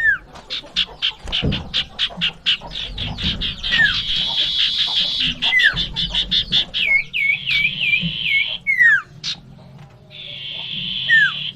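Common iora (sirtu or cipoh) singing a fast, varied song. It mixes quick runs of sharp repeated notes, short downward-slurred whistles, harsh buzzy chattering, and a run of five looping notes about two-thirds of the way in.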